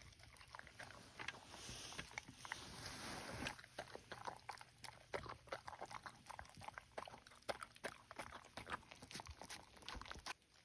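A dog eating steak: quick, irregular chewing and smacking.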